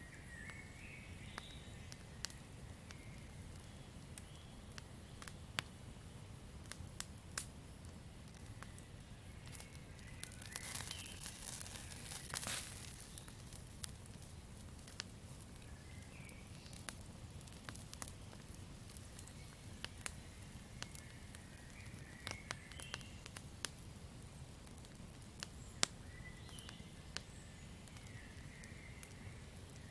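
Campfire crackling: scattered sharp pops and snaps over a low steady rumble, with a denser flurry of crackling and hiss about a third of the way through. Faint short high chirps sound now and then.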